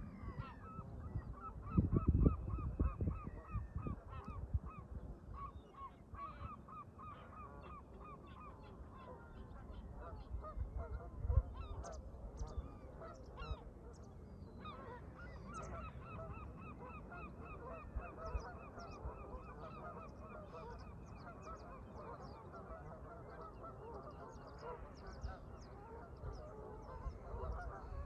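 A flock of Canada geese honking in long runs of quick repeated calls, one early and a longer one through the middle, with scattered higher bird calls among them. Gusts of wind rumble on the microphone, strongest about two seconds in.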